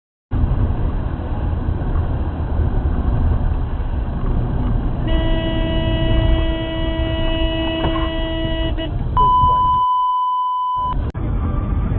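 Steady low road and engine rumble of a car; about five seconds in a car horn sounds, held steadily for nearly four seconds. Then a pure beep tone replaces all other sound for about two seconds before the rumble returns.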